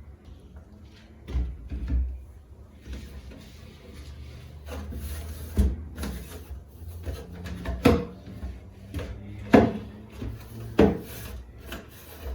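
Cloth rubbing and wiping refrigerator surfaces, broken by about six sharp knocks and clunks as the fridge's shelves and drawers are handled, the loudest in the second half.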